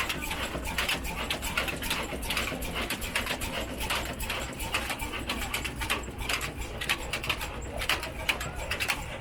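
Old 22 hp slow-running diesel engine running, a steady low hum under a dense, irregular clatter.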